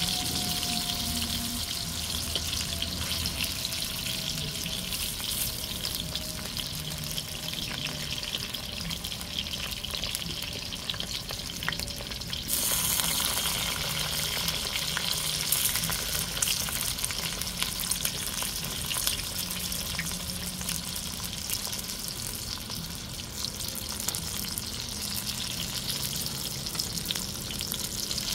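Bammy wedges and onion frying in hot oil in a cast-iron pot: a steady sizzle that suddenly gets louder about halfway through, with light clicks of a fork turning the pieces against the pot.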